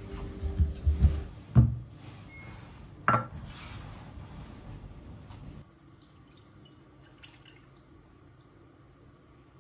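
Kitchen handling sounds: a few knocks and clinks of tableware being handled and set down, the loudest about a second and a half in and again about three seconds in, over a low steady background that stops a little past halfway.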